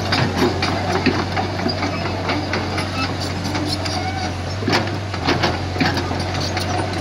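Komatsu PC75 excavator's diesel engine running steadily, with irregular metallic clanks and knocks from the working machine. The loudest knocks come a little under five seconds in and again about a second later.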